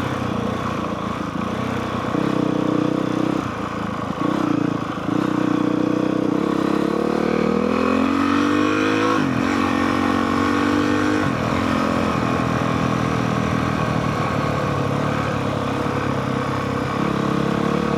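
Honda CRF450R's single-cylinder four-stroke engine running under way. The engine note climbs for a couple of seconds from about six and a half seconds in, drops sharply just after nine seconds, then runs steadily again.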